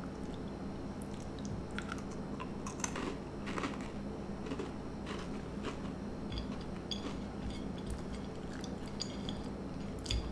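Mouth-close chewing and crunching of Teddy Grahams honey graham crackers, a series of small irregular crackly crunches, with light clicks of the crackers being slid on a china saucer by the fingers.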